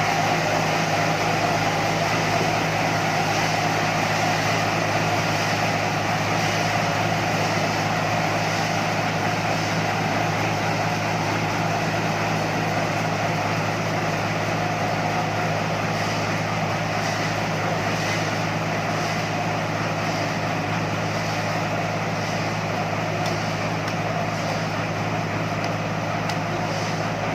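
Sawmill machinery running steadily: a constant engine drone with a higher whine over it. Faint regular ticks come about once a second in the second half.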